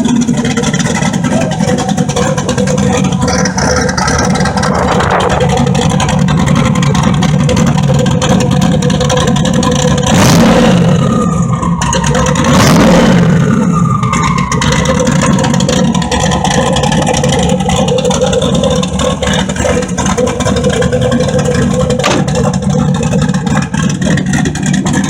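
Turbocharged LS V8 running steadily, with two short loud bursts about ten and thirteen seconds in, each a rush of hiss followed by a falling whistle as the turbo spools down.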